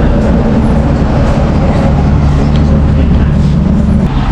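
Honda Wave 110i's small single-cylinder four-stroke engine idling steadily.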